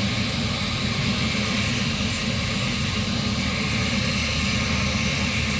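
Helicopter running on the ground close by, with a steady, loud rotor and turbine engine noise.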